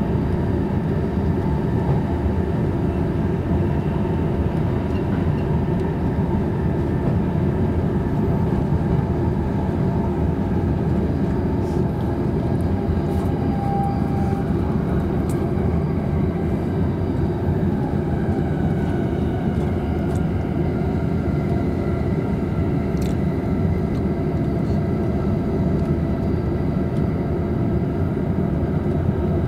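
Tokaido Line commuter train heard from inside its double-decker Green car while running between stations: a steady rumble of wheels on rail, with a faint whine that rises a little past the middle and a few light clicks.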